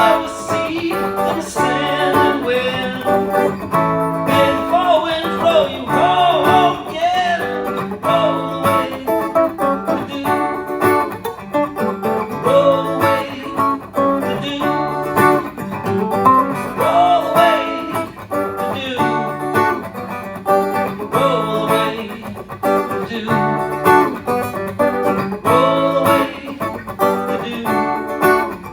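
Guitar played live: strummed chords with a melodic line over them, in a continuous rhythmic jam.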